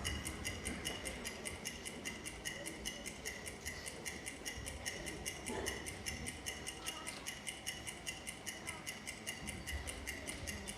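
Steady, fast ticking, about five ticks a second, with faint steady high tones beneath it.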